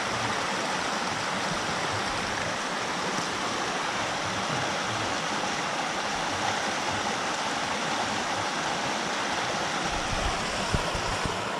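River water rushing steadily over stones, a constant even rush, with a few low bumps about ten seconds in.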